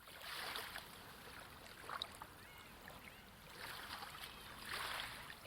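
Faint waves washing in and drawing back in slow swells, with a few short, faint high chirps in between.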